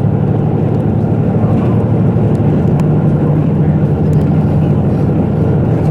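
KiHa 85 series diesel railcar on the move: the steady drone of its Cummins diesel engines over wheel-on-rail noise, with a few faint ticks.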